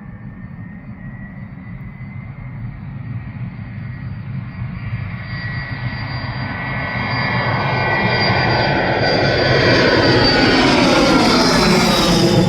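Cessna Citation Latitude business jet's twin turbofans at takeoff power, a steady high whine that grows steadily louder as the jet closes in. Near the end the tone sweeps as the jet passes.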